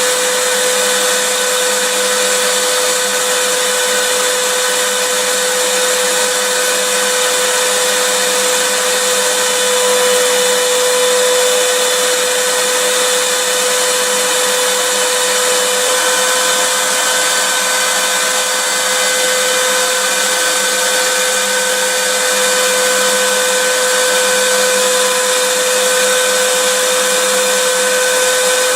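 Vacuum cleaner running steadily, a loud, even whoosh of air with a constant high hum from the motor.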